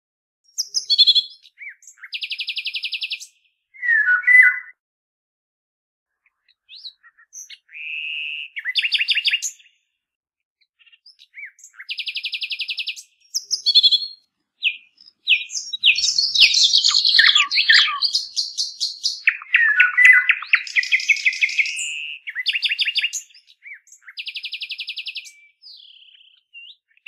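Songbirds chirping and trilling in short phrases with silent gaps between them, busier for several seconds past the middle. One buzzy pulsed trill comes back three times.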